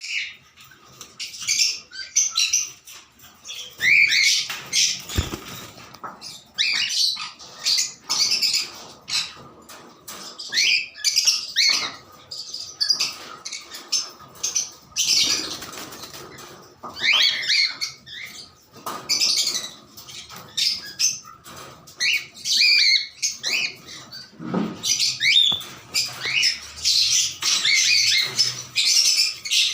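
Pet cockatiels chirping: a long series of short, rising calls in quick runs with brief pauses between them.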